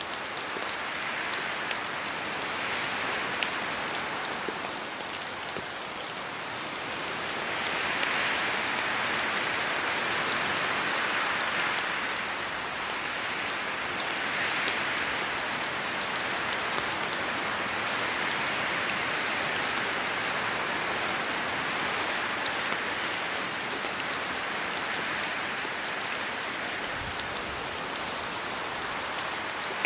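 Steady rain falling in a forest, a dense hiss sprinkled with fine drop ticks, swelling louder for a few seconds about a third of the way in.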